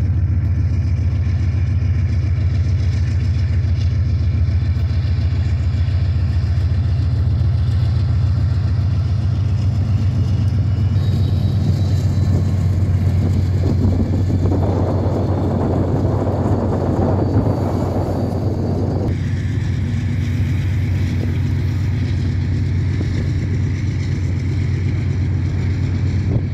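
Diesel freight train running past, its locomotive's low rumble steady throughout. A louder rush of wheel and rail noise comes for about five seconds in the middle, and a higher steady tone joins after it.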